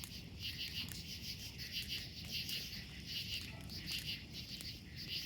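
Crickets chirping in short pulsed trills that repeat about every three-quarters of a second, with a few sharp crackles from a burning bonfire.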